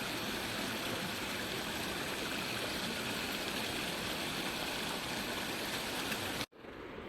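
Steady rushing of a mountain stream, cutting off abruptly about six and a half seconds in, after which a quieter outdoor ambience follows.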